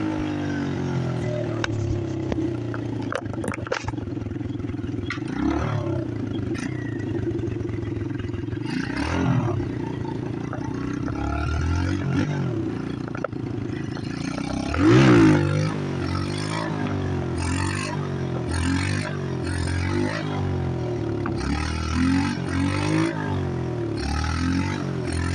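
Chinese pit bike engine running and being revved up and down over and over, with its pitch rising and falling. The sharpest, loudest rev comes about halfway through.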